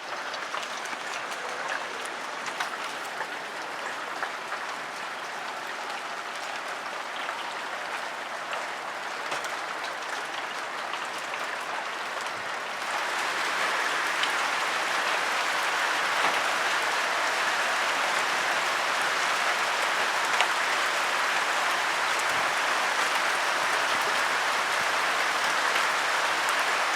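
Hail and rain pelting down, a dense patter of stones clattering on surfaces; it gets abruptly louder about halfway through.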